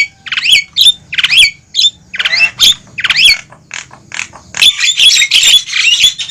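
Javan mynas calling noisily: a quick run of short, harsh calls and sliding whistled notes, turning into a dense, continuous chatter about four and a half seconds in.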